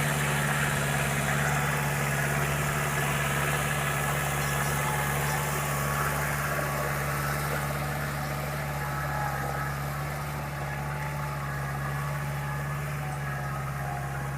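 Deutz-Fahr 4×4 tractor's diesel engine running steadily at an even, low speed, easing slightly quieter toward the end.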